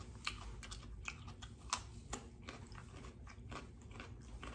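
A person chewing raw fruit and vegetables with the mouth closed: soft, irregular crunches and mouth clicks, about two or three a second.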